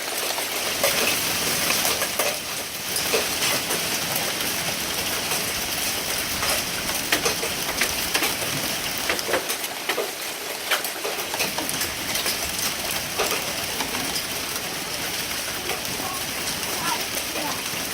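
Hail falling: a steady hiss of precipitation with many sharp ticks of hailstones striking hard surfaces.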